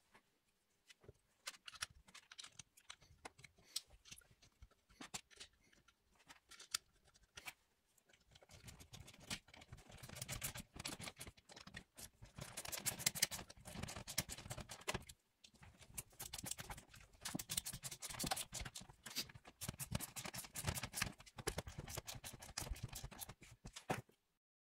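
Faint, irregular clicking, scraping and rattling of hand tools and parts being handled during engine work. It gets busier and rougher about a third of the way in and stops abruptly just before the end.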